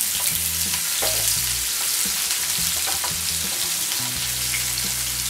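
Chopped onions sizzling steadily in hot oil in a non-stick frying pan, stirred with a wooden spoon, with a few light clicks and scrapes.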